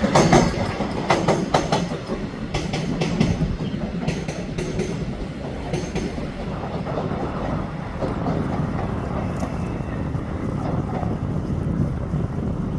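A Taiwan Railway EMU500 electric multiple-unit train arriving at the station, its wheels clacking over rail joints in a run of sharp knocks over the first few seconds, then a steady rumble as it rolls in.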